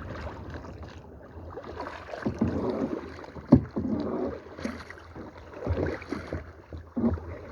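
Kayak paddle strokes dipping and splashing in the water, several swells of splash a second or so apart, over a low rumble of wind on the microphone. A sharp knock comes about halfway through.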